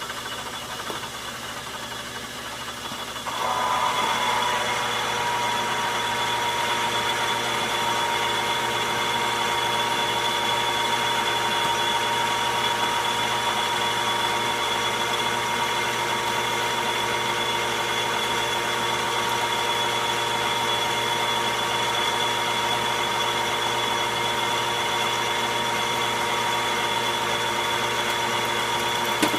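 Logan metal lathe running steadily. About three and a half seconds in the sound steps up and gets louder, with a steady whine added that holds to the end.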